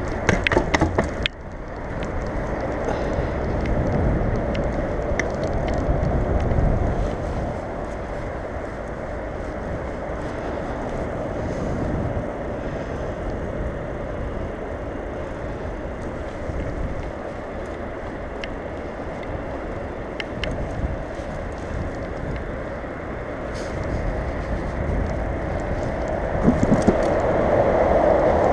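A bicycle being ridden: steady rushing road and tyre noise. A cluster of clicks and knocks comes in the first second or so, and a few more knocks come near the end.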